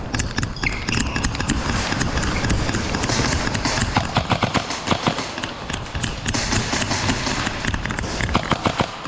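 Rapid footsteps and a steady clatter of sharp knocks and taps on a hard floor, as players move through an indoor airsoft arena.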